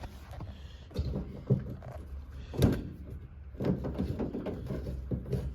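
A few sharp knocks and clicks, then softer rustling, as a fuel line fitting is handled and worked on to its threads.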